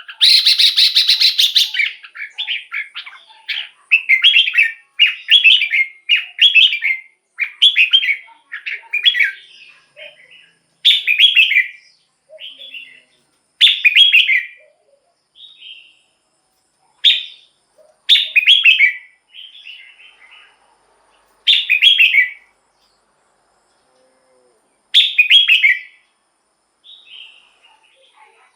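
Red-whiskered bulbul singing a run of short, loud, warbling song phrases with brief pauses between them.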